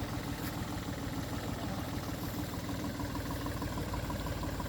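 Engine of a working tractor or backhoe running steadily at a low, even rumble, with a light regular ticking at about four or five a second in the second half.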